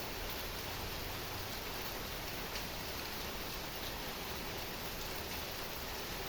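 Heavy rain falling steadily at night, an even hiss with a few faint drop ticks.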